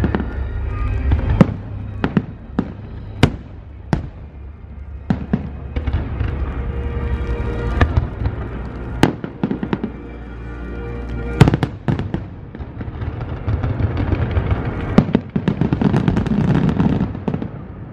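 Aerial fireworks bursting overhead: irregular sharp bangs, some in quick pairs, over a steady low rumble. Near the end comes a dense crackle as a large white glittering burst opens.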